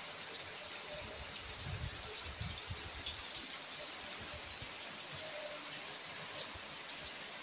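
Heavy rain falling steadily: a dense, even hiss, with some irregular low rumbling underneath.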